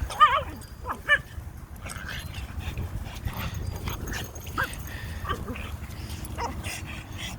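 Dogs playing rough: a loud wavering whine right at the start and a sharp yip about a second in, then a few fainter yips.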